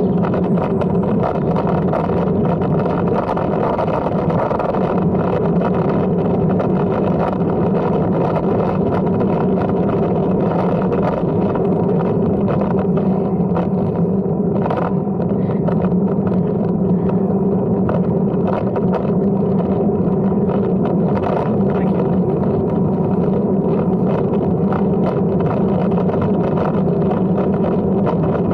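A steady, unchanging rumble with a few constant hum tones and no distinct events.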